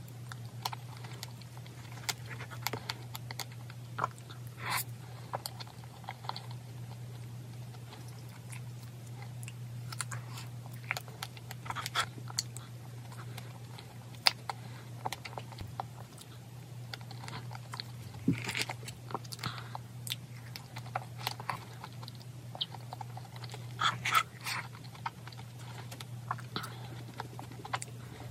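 Close-up chewing and mouth sounds of a person eating strawberry cream cake, with short sharp clicks scattered throughout. A steady low hum runs underneath.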